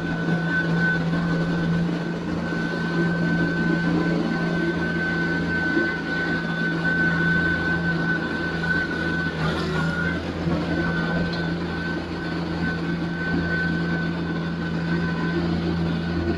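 TYM T574 compact tractor's diesel engine running steadily under work, with a steady high whine over the low engine hum; the whine drops out for a moment about ten seconds in.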